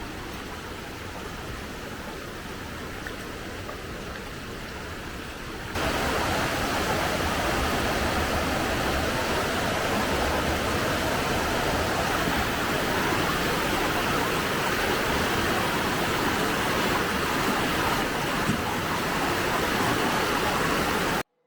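Rushing water from a stream or falls, a steady hiss that jumps much louder about six seconds in and stays steady, then cuts off abruptly just before the end.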